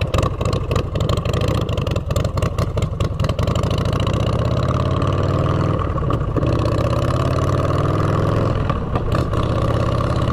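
Motorcycle engine running through aftermarket exhaust pipes while riding. Its pitch climbs steadily under acceleration from about four seconds in, dips briefly near six seconds as the next gear goes in, climbs again, and eases off near nine seconds.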